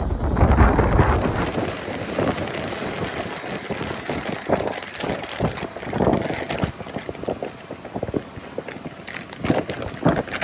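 Strong wind buffeting the microphone: a heavy low rumble for the first second or so, then irregular crackling and popping gusts.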